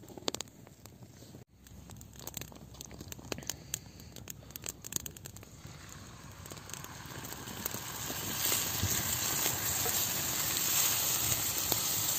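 Wood fire crackling and snapping in irregular pops, with a steady hiss that grows louder from about six seconds in.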